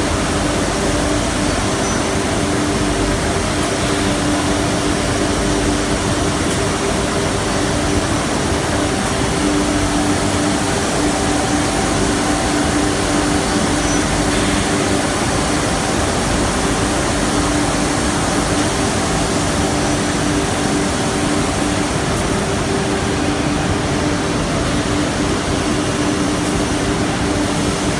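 CNC nesting router running: a steady rushing noise with a few held hum tones through it that do not change for the whole stretch.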